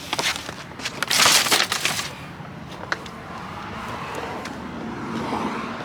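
Things being handled and moved about in a car's back seat: scattered clicks and knocks, with a loud crackling rustle about a second in.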